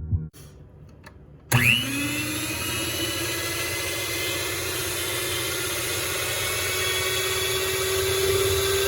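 Dash stand mixer's electric motor switched on about a second and a half in: its whine climbs quickly as it spins up, then runs steadily, creeping slowly higher in pitch.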